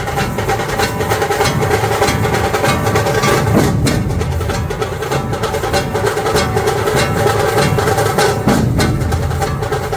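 Dhol drums played together by a drum troupe, a dense, fast rhythm of strikes that never lets up.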